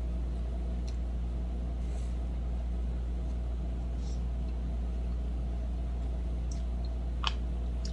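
Small clicks and smacks of someone eating a meal of fried chicken and rice, with one sharper click near the end, over a steady low rumble.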